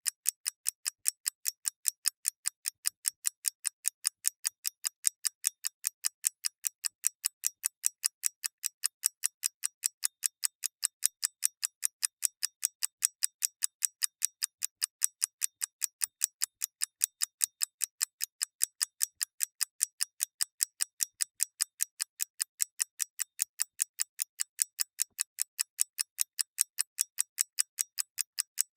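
Clock ticking steadily: a fast, even train of crisp, high-pitched ticks, about four a second.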